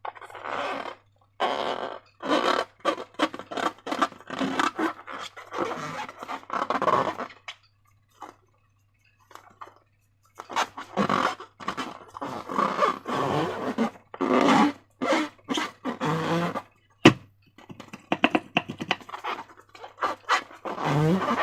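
Slime being squished and worked by hand: wet squelching and crackling in irregular bursts, with a pause of a few seconds midway and a single sharp click late on.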